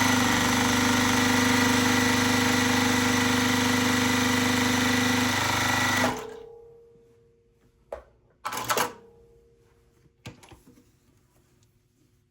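Juki TL-15 semi-industrial straight-stitch sewing machine stitching fast and steady with a high whine, stopping about six seconds in. A few short clicks and a brief rasp follow.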